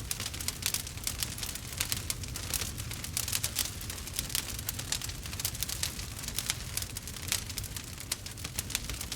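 Wood fire burning with dense, irregular crackles and small pops of the burning wood, over a low steady rumble.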